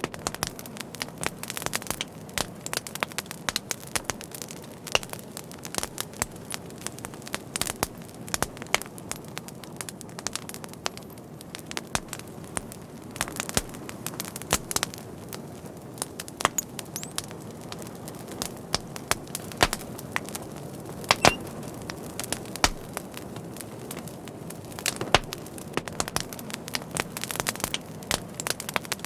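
Wood fire burning with frequent irregular sharp crackles and pops over a steady low rush of flame.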